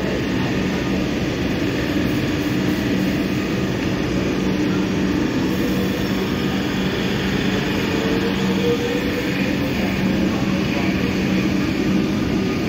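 Electric suburban train running along a station platform: a steady electrical hum, with a motor whine that rises in pitch around the middle as the train picks up speed.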